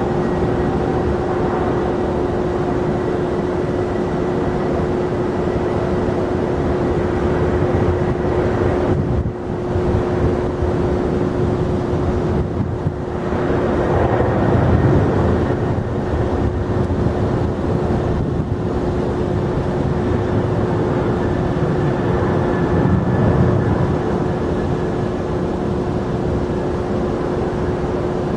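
Jet airliner engines running with a steady noise and a steady tone under it, swelling slightly now and then.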